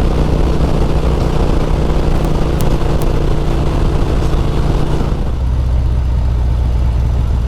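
Harley-Davidson V-twin motorcycle running at high highway speed, heard from the rider's seat with heavy wind rush over the engine note. About five seconds in, the wind rush falls away and the engine note changes as the bike eases off and slows.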